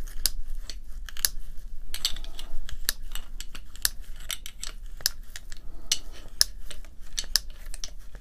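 Irregular small clicks and clinks of metal parts and tools being handled during reassembly of a rotary hammer's gear housing.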